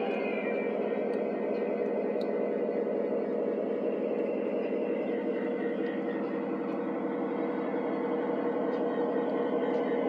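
Model train running on its track: a steady electric motor hum with fast, even wheel clatter, and a few light clicks.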